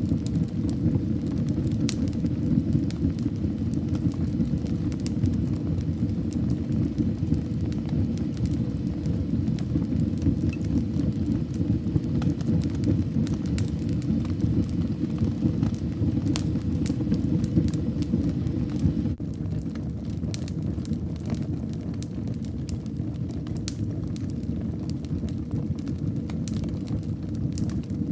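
Wood fire in a fireplace crackling, with a steady low rumble of flames and frequent sharp pops and snaps. The rumble drops a little about two-thirds of the way through.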